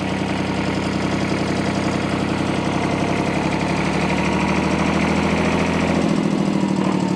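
Porsche P133 tractor's air-cooled three-cylinder diesel engine running as the tractor pulls away in first gear, growing slightly louder, with a change in its note about six seconds in.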